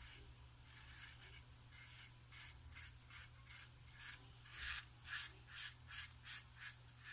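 Safety razor blade scraping through two days of beard stubble in short rasping strokes, faint at first, then louder at about three strokes a second from about halfway in.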